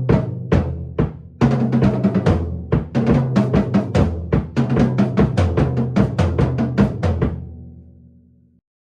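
Rebuilt drum kit being played: a busy run of drum hits with the toms and bass drum ringing. The playing stops about seven seconds in and the drums ring out and fade.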